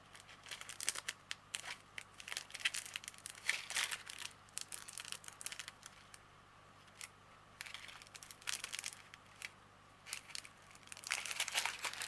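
Small plastic bags of diamond painting drills crinkling as they are handled, in short bursts with quiet gaps between.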